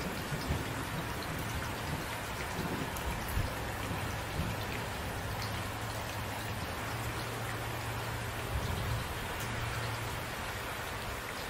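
Steady rain falling, a dense even hiss of drops on surfaces, with a low rumble underneath.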